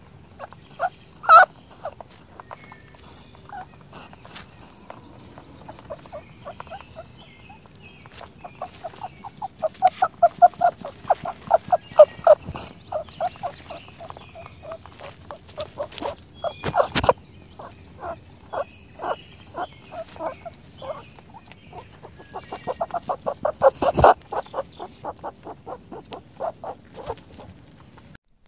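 Rapid runs of short animal calls, about ten pulses a second, each run swelling and fading over two or three seconds, with a few sharp clicks in between.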